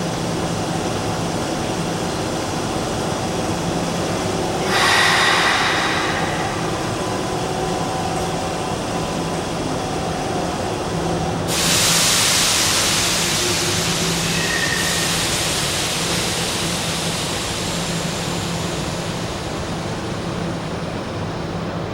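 Hanshin electric train at Sannomiya station, running with a steady rumble and a faint hum. A short loud burst of hiss comes about five seconds in, and a longer hiss starts suddenly about halfway through and slowly fades.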